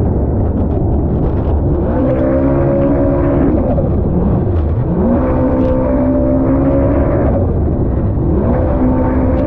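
Yamaha SVHO supercharged personal-watercraft engine running on a jet ski, its pitch climbing, dropping and climbing again as the throttle is worked, over a loud rushing noise of wind and water.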